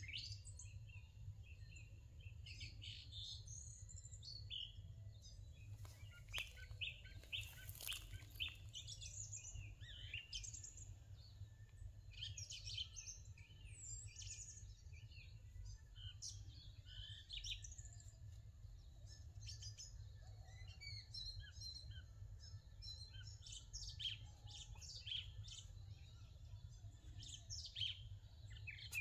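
Songbirds chirping and calling in many short notes throughout, over a steady low background rumble.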